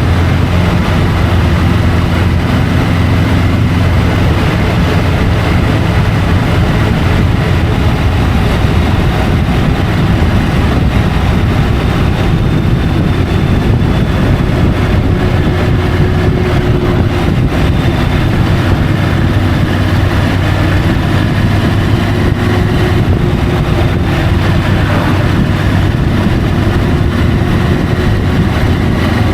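Triumph Tiger 850 Sport's inline three-cylinder engine running steadily while riding, under a constant rushing noise at the bike-mounted camera.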